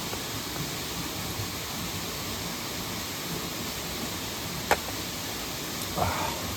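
Steady rushing of flowing stream water, with one sharp click about two-thirds of the way through and a short dull knock near the end.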